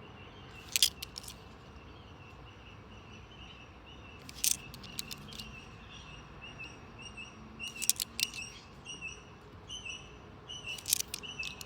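Twenty-eight parrot (Australian ringneck) calling: a long string of short, repeated chirps. Brief clusters of sharp clicks break in about every three to four seconds and are the loudest sounds.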